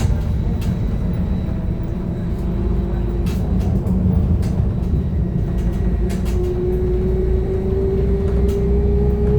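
Inside a BKM-321 trolleybus under way: steady low rumble with scattered rattles and clicks, and the electric traction drive's whine rising slowly in pitch from about six seconds in as it speeds up.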